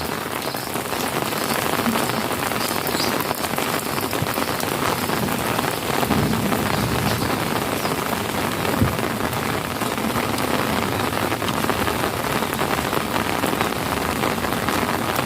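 Heavy rain falling steadily onto puddles and water-logged ground, a dense even hiss of drops and splashes.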